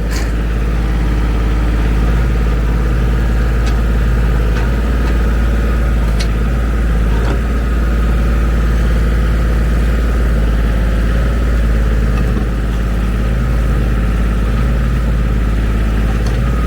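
Ford 1520 tractor's three-cylinder diesel engine running steadily while the backhoe is worked, with a few faint clicks.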